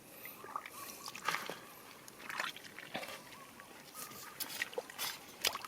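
Water sloshing and trickling, with scattered splashes and knocks at irregular moments.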